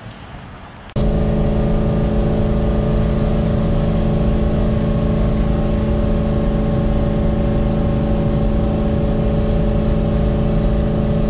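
Widebody C6 Corvette's built V8 with headers and a full exhaust running at a steady speed: a loud, steady drone that holds one pitch and begins abruptly about a second in.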